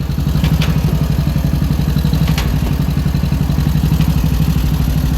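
Tractor engine running steadily at an even speed, with a couple of light clicks or knocks about half a second and two and a half seconds in.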